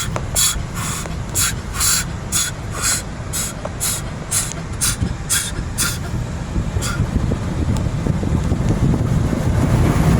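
High-pressure water jets of an automatic car wash striking the car, heard from inside the cabin: rhythmic spray bursts about two a second that stop about six to seven seconds in, over a steady low rumble.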